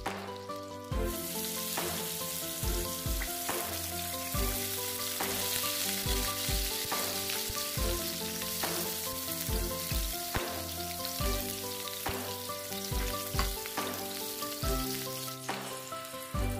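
Eggplant rings frying in butter in a pan, a steady sizzle that starts about a second in and stops shortly before the end. Background music with a steady beat plays underneath.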